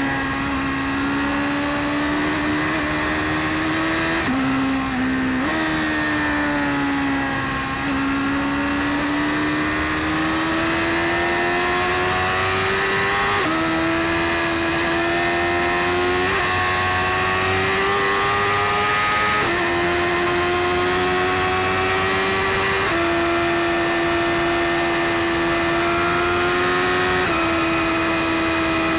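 BMW S1000RR's inline-four engine running hard under way, its pitch climbing steadily and then stepping to a new level every few seconds as the gears change.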